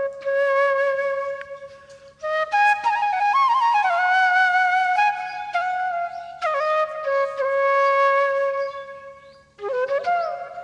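Solo flute music: a slow melody of long held notes with slides and small ornaments between them, broken into phrases by short pauses about two seconds in and again near the end.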